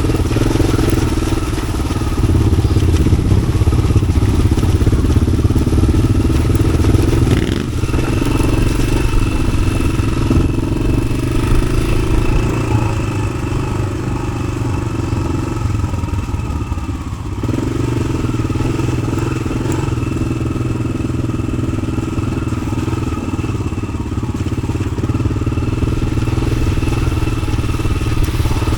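1993 Yamaha XT600's air-cooled single-cylinder engine, through an aftermarket Arrow exhaust, running steadily under way off-road. Its note changes briefly about seven seconds in and again around seventeen seconds.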